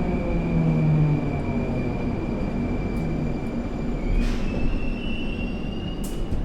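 Moscow metro 81-740/741 "Rusich" train heard from inside a car as it slows to a stop in a station. Its electric traction drive whines with low tones that fall away as the speed drops. A steady high tone steps up in pitch about four seconds in, with two short hisses, one then and one near the end.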